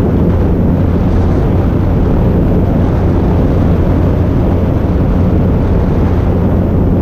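Cessna 152's four-cylinder Lycoming O-235 engine and propeller running steadily during takeoff, heard from a wing-mounted camera with heavy wind rush over the microphone.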